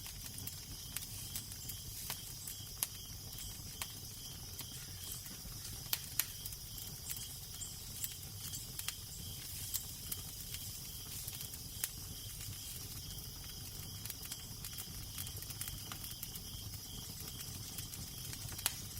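Fire crackling, with frequent irregular sharp pops and snaps over a steady hiss, above a low rumble of wind.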